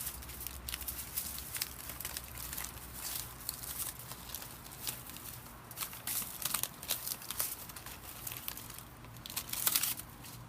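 Aluminium foil packet being unfolded and opened by hand: irregular crinkling and crackling, busiest near the end.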